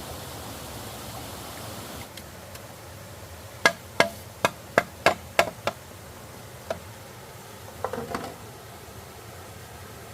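A run of about seven sharp knocks, roughly three a second, starting a few seconds in, then a single faint knock and a short cluster of two or three knocks near the end.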